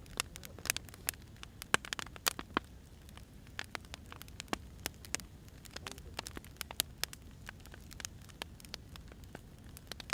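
Burning firewood crackling, with irregular sharp pops and snaps over a low steady hiss.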